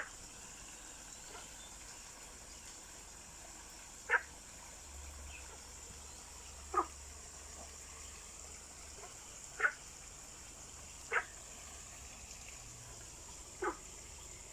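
Five short animal calls spaced a few seconds apart, each a brief sharp chirp, over a steady high hiss of outdoor ambience by a stream.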